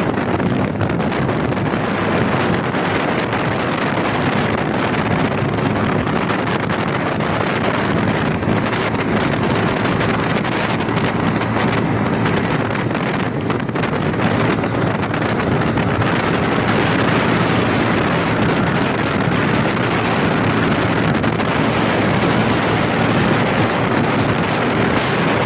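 Bajaj Pulsar NS125 motorcycle's single-cylinder 125 cc engine running steadily through its exhaust, holding an even level with no clear revs.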